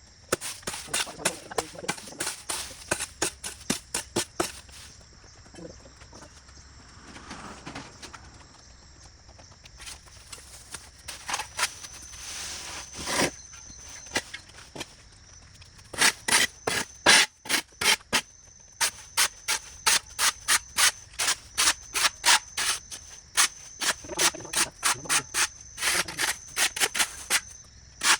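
Quick repeated scraping strokes on the ground, a few a second, thinning out for a few seconds after about five seconds in and pausing briefly near the middle, as debris is cleared by hand. A steady high insect drone runs underneath.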